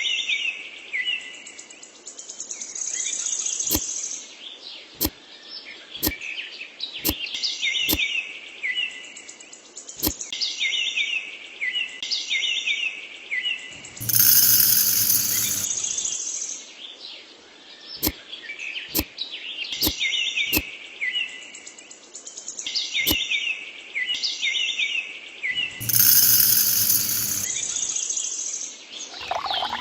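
Birds chirping and calling in quick repeated phrases, with sharp clicks every second or two and two louder bursts of noise, one about halfway through and one near the end.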